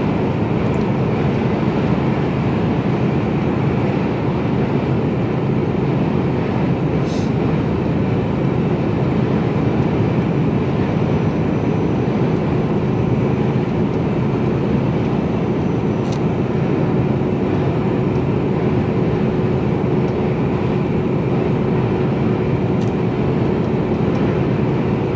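Inside the cab of a Mercedes-Benz Actros lorry cruising at steady speed: a constant engine drone with road and tyre noise and a faint steady hum. A few faint clicks stand out.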